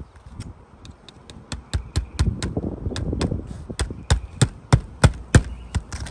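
Hammer driving roofing nails into asphalt shingles: a quick, uneven run of sharp blows, about three or four a second. It starts with a few lighter taps and gets louder about a second and a half in.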